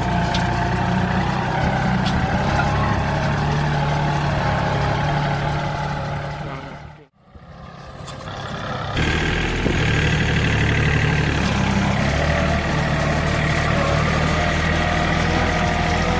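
The diesel engine of a 40 hp Yanmar tractor running steadily. About seven seconds in, the sound fades out almost to nothing, then comes back, and it is louder from about nine seconds on.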